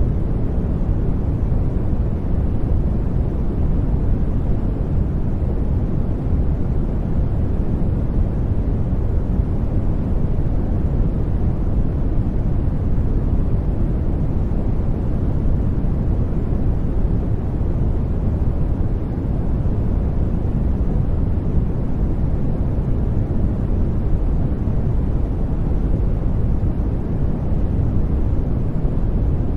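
Steady generated sleep noise, sold as white noise but weighted heavily toward the low end: an even, deep rumbling hiss with nothing changing in it.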